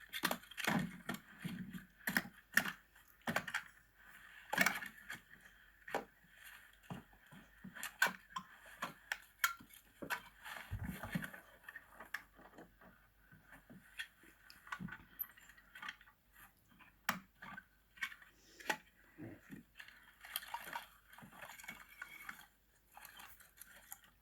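Irregular light clicks and knocks, dozens of them at uneven spacing, over a faint steady background hiss.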